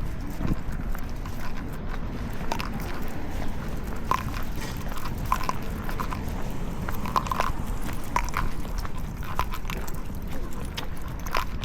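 Irregular light clicks and taps, a few a second at most, over a steady low rumble.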